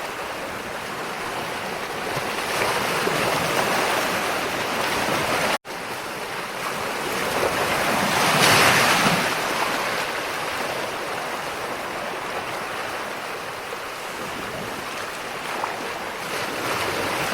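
Ocean waves washing onto a shore, a continuous rushing surf that swells and eases, with the biggest wave surging about halfway through. The sound cuts out for an instant about five and a half seconds in.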